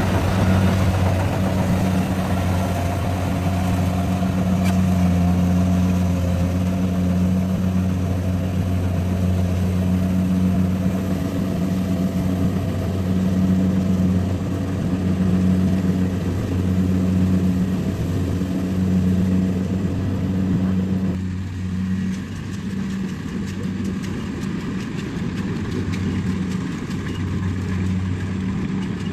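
Rice combine harvester's engine running steadily, a low hum. About two-thirds of the way through, the brighter, higher part of the sound drops away abruptly and the low engine hum carries on.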